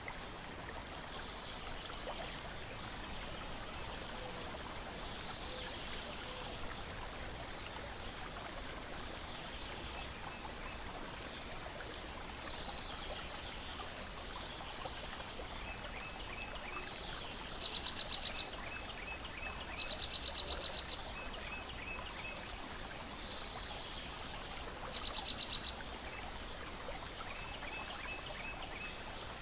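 Steady lapping and splashing of lake water, with birds chirping throughout. Three loud, rapid high trills come in the second half, the last the loudest.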